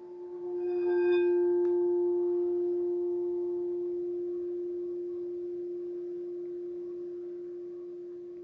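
A singing bowl swells up to a single ringing tone about a second in, then sustains and slowly fades.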